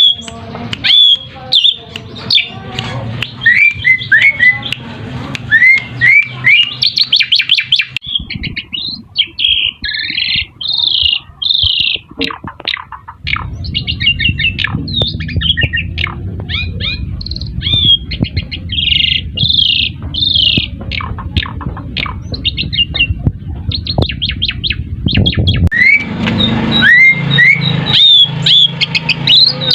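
Pied starlings (jalak suren) calling: a dense, varied run of rising chirps, chattering and squawky whistles, played as a lure to set other starlings calling. The recording changes abruptly a few times, and a low rumble sits under the calls in the middle stretch.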